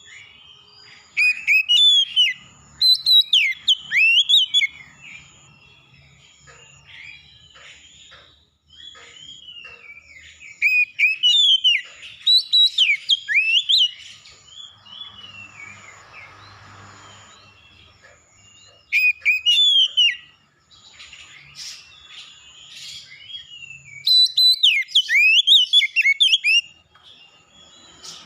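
A songbird singing loud bursts of quick, sweeping whistled phrases, four main bouts a few seconds long, with quieter chirps between them and a thin high note pulsing steadily in the background.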